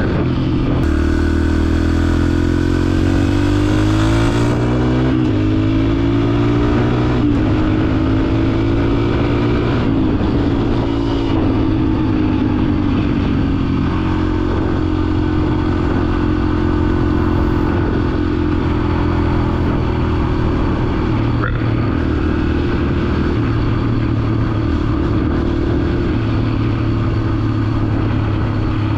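125 cc dirt bike engine under way, rising in pitch as it accelerates over the first few seconds with a few dips and climbs, then running at a steady cruise.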